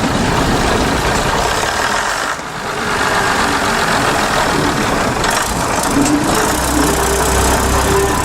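Diesel train engine running, loud and steady with a low hum; the sound dips briefly about two and a half seconds in.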